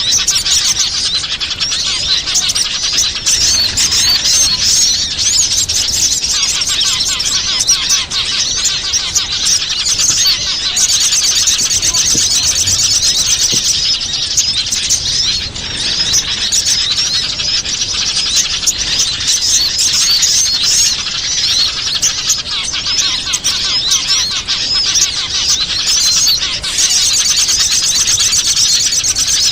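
Dense, loud chorus of many small birds chirping and twittering without pause: a bird-lure (pikat) recording played to call in wild small birds.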